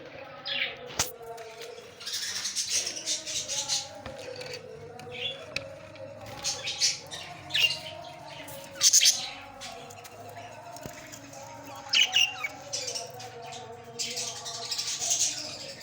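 Pet Australian parrots chirping and chattering in repeated short bursts.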